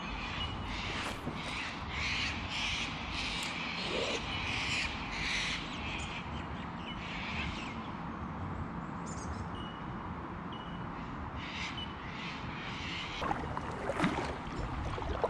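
Birds giving harsh, crow-like cawing calls in a quick run for the first half, then scattered shorter calls, over a steady low rumble of wind and water. A few sharp knocks come near the end.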